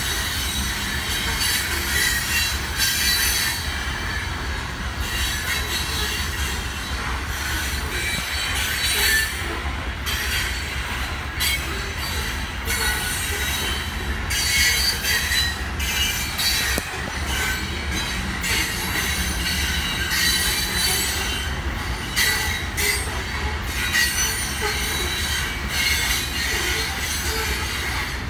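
Loaded coal cars of a long freight train rolling steadily past, with the steel wheels squealing in thin high tones over a constant low rumble.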